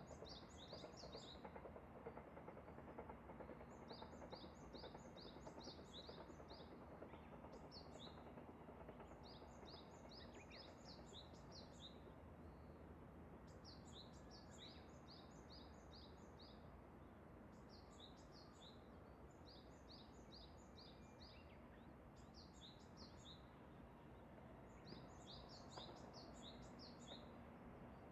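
A songbird singing short phrases of quick high chirps, repeated every few seconds, over a quiet steady hiss of open-air background noise.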